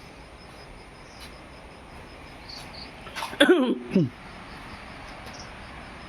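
One short, loud vocal burst from a person about three seconds in, with a noisy start and then a pitch that falls, much like a sneeze. Insects chirp faintly and steadily throughout.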